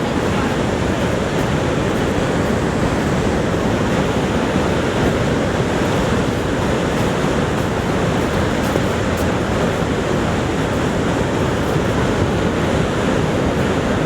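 Niagara Falls' water thundering down in a steady, unbroken rush, deep and even, with no breaks or separate sounds.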